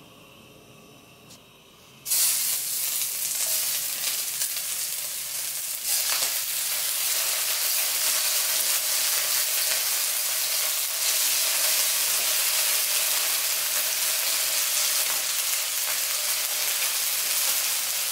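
Chicken pieces laid into hot oil in a seasoned wok, bursting into a loud sizzle about two seconds in. It gets louder again about six seconds in as more pieces go in, then holds steady.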